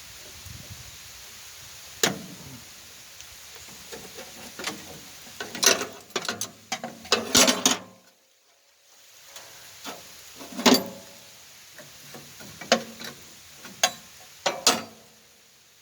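Irregular sharp clicks and knocks of hands working with small parts and tools on the machine, with the sound dropping out briefly about halfway through.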